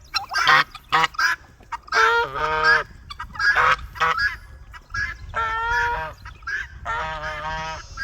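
Geese honking repeatedly, a run of short honks giving way to longer, drawn-out calls.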